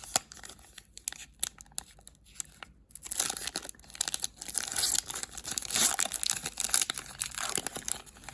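Wrapper of an Upper Deck hockey card pack being torn open and crinkled: a few sharp crackles at first, then a long stretch of continuous crinkling and tearing from about three seconds in.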